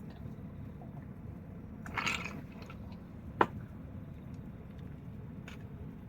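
Wood fire burning with a low steady rumble, a brief burst of crackling about two seconds in, then a single sharp pop, the loudest sound, and a fainter snap near the end.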